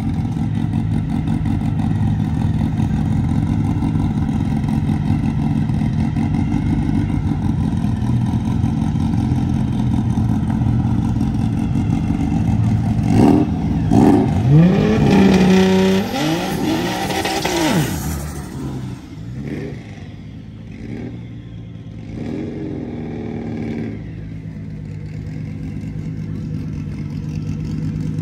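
Drag race cars' engines idling at the starting line. About 13 seconds in, an engine is revved hard several times, its pitch sweeping up and down for about five seconds, before the sound drops back to a quieter, lower engine rumble.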